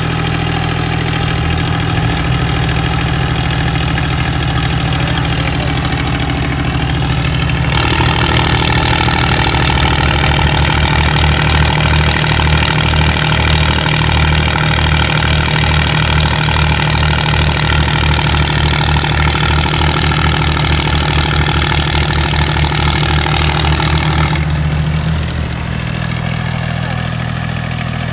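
Tractor diesel engine running at a steady idle, then picking up speed about eight seconds in. It holds at the higher speed with a heavy, pulsing low beat, then eases back down near the end.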